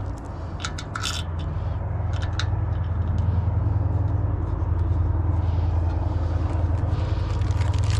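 A steady low motor hum that grows louder over the first few seconds and then holds, with a few sharp metallic clicks near the start.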